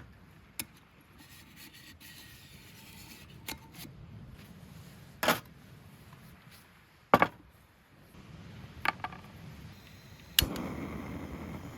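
Scattered single knocks and clinks of camp coffee gear being handled. About ten seconds in, a sharp click is followed by a steady hiss, like a camp gas burner lighting to heat water for coffee.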